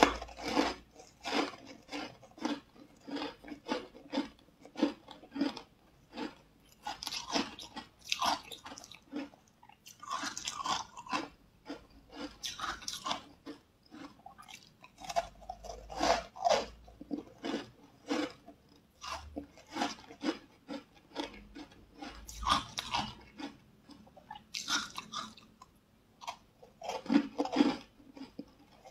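Close-miked chewing and crunching of a snack coated in green powder, with bites and wet mouth sounds coming in irregular bursts, several heavier crunchy spells among quieter chewing.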